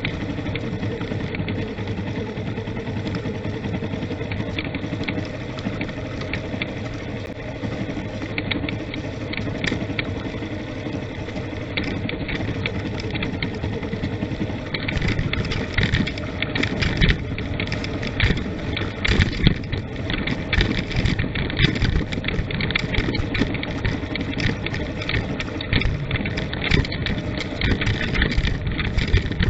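Vehicle engine running steadily while driving. From about halfway there are frequent knocks and rattles from the vehicle jolting over a rough forest road.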